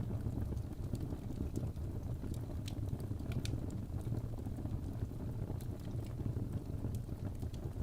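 Wood fire burning in a fireplace: a steady low rumble of flames with scattered sharp crackles and pops from the logs at irregular moments.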